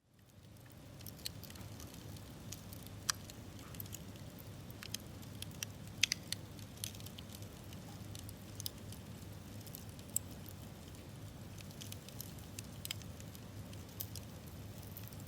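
Wood campfire crackling: irregular sharp pops and snaps over a low steady rumble, fading in at the very start, with the loudest pops about three and six seconds in.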